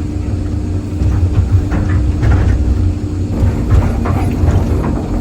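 Excavator's diesel engine running steadily, with a run of knocks and clanks from about a second and a half in as the bucket breaks and pushes concrete.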